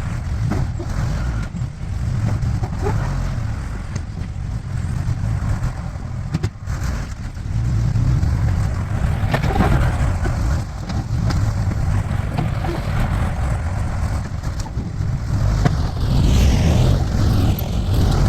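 Backhoe engine running under load, its level rising and falling as it works, with a few sharp knocks.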